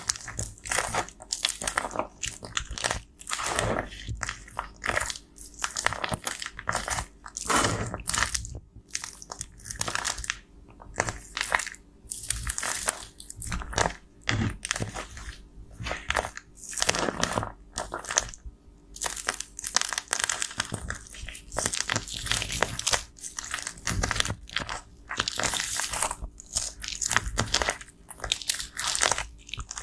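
Pressed powder cosmetics being crushed and scraped with a tool: a dense, irregular run of crunching and crackling strokes.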